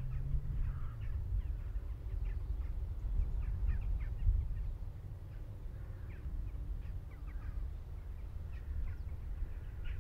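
Birds calling: a few harsher calls and many short chirps scattered throughout, over a steady low rumble.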